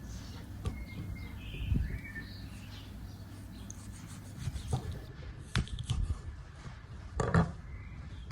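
Food-preparation handling sounds: rubbing and scattered knocks, the loudest two about five and a half and seven seconds in, with a few faint bird chirps in the first two seconds.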